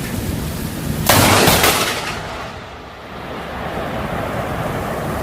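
A close thunderclap: a sudden loud crack about a second in that fades within a second, over a steady rushing noise.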